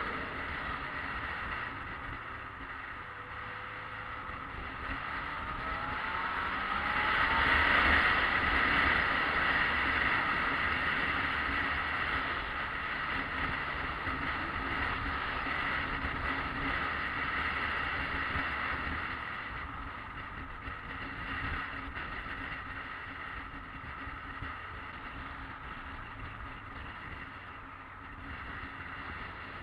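Yamaha XJ600S Diversion's air-cooled inline-four engine running on the move, with steady wind and road noise. It grows louder with a brief rise in pitch about seven seconds in, then settles back.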